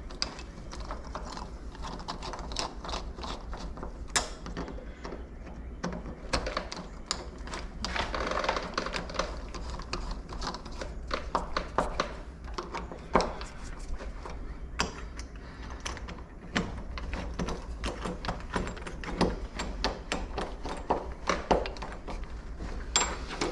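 Door lock hardware being handled and worked by hand: many irregular metallic clicks, taps and rattles.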